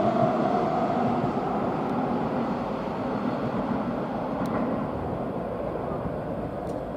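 Keihan 9000 series electric commuter train pulling out of the station and moving away, its running noise fading gradually as it recedes. A motor whine dies away in the first moment, and two faint ticks come near the end.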